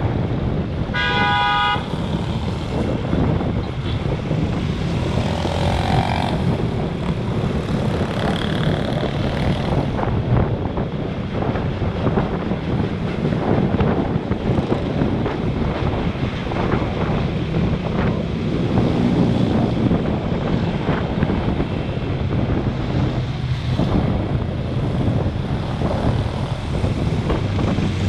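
Road traffic heard from a moving motorbike, with engine and road noise and wind buffeting the action camera's microphone. A vehicle horn honks once, briefly, about a second in.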